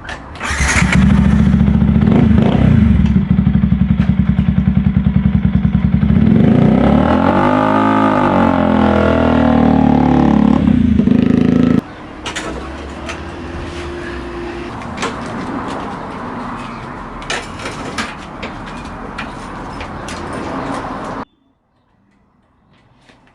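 Motorcycle engine running loudly at idle, revved once around the middle so the pitch rises and falls back. About twelve seconds in, the sound suddenly drops to a quieter engine-and-street noise with scattered clicks, then stops abruptly near the end.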